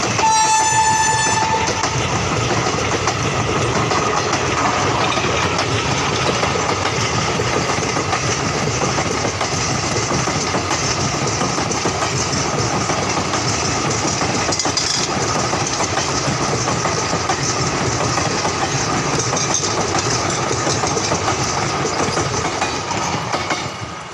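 Indian Railways express train running, its horn sounding once for about a second and a half near the start. Steady rushing wheel and coach noise follows, and it drops off near the end.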